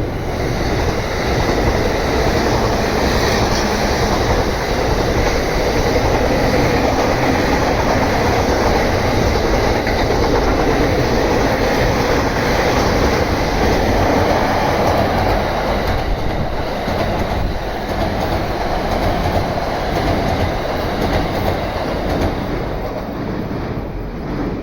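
A train passing through a station at speed, its wheels rumbling and clattering over the rail joints. The sound stays steady and loud for over twenty seconds, then eases off near the end.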